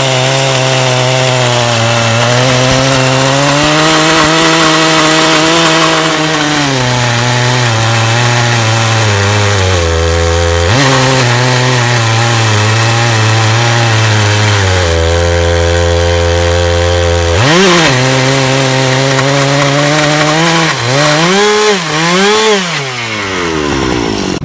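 Two-stroke chainsaw engine of a portable sawmill cutting a plank lengthwise through a log under steady load. Its pitch sags for long stretches as the bar is pushed into the cut, with a brief rev about two-thirds in. Near the end the engine revs up and down a few times, then drops off.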